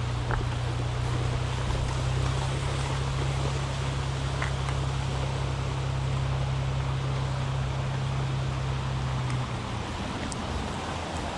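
Steady rush of moving water with a low, steady motor hum underneath; the hum cuts off about nine and a half seconds in.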